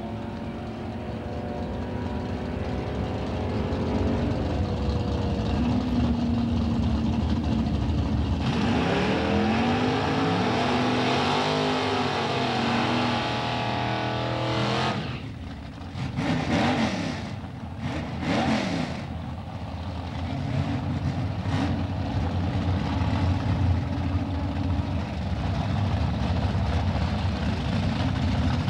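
Drag-racing car engines. At first a steady engine note. About eight seconds in comes a loud stretch of hard revving with a tyre burnout, then a few sharp throttle blips that rise and fall. Near the end the engines run steadily at the start line.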